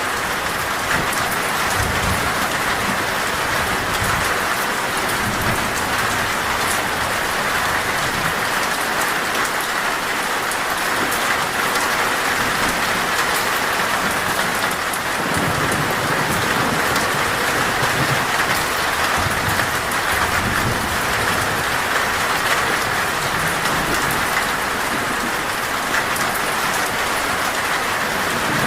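Heavy, torrential rain drumming steadily on a metal roof, with low rumbles of thunder coming and going, most of all in the second half.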